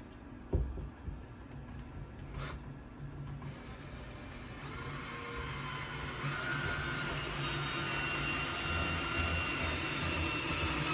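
Power drill driving a screw through the edge of a plywood shelf into its support: a couple of light knocks, then a steady whir that builds over several seconds and cuts off sharply near the end as the screw seats.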